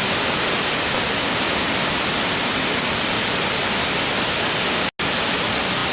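Waterfall: a steady, even rush of falling water that cuts out for an instant about five seconds in.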